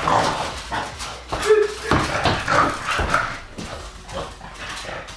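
A pet dog making short whining, yipping calls during rough play, among scuffling knocks.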